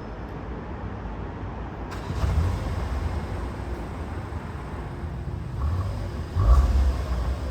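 Skoda Kodiaq RS 2.0 TSI turbocharged four-cylinder petrol engine and exhaust running with a low rumble, swelling louder about two seconds in and again near the end.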